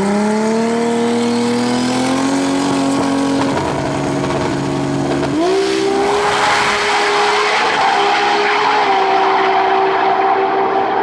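Drag racing car engine at full throttle during a pass down the strip. The engine note climbs steadily after the launch, jumps higher about five seconds in, and then holds steady under a growing rush of noise.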